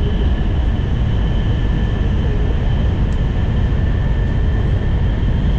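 Steady rumble of an N700 series Shinkansen running along the line, heard from inside the car, with two faint steady high tones over it.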